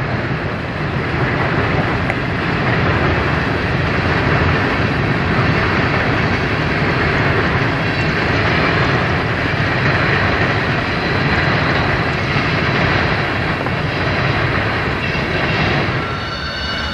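Freight train rolling past, a steady rumble of wheels on rail. A few high, steady tones come in near the end.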